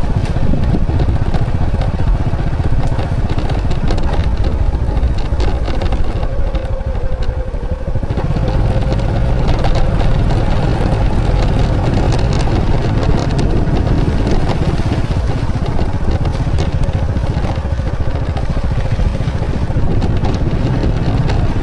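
Motorcycle engine running steadily under way, a low throb that eases off briefly about seven seconds in and then picks up again.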